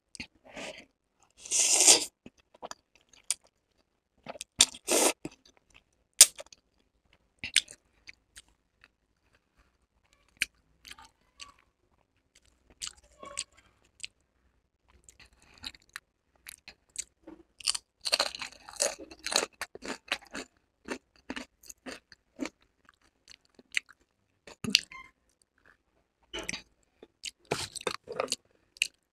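Close-miked eating sounds: a mouthful of spicy instant noodles taken and chewed near the start, then Doritos nacho chips loaded with salsa bitten and crunched. The bites come in scattered bursts with quiet pauses between, busiest a little after the middle and again near the end.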